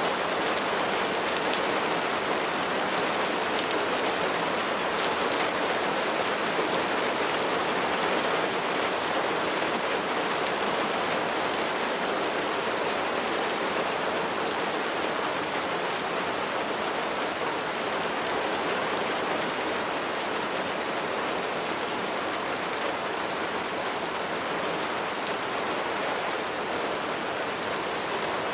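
Steady rain falling, an even hiss of drops with fine scattered pattering.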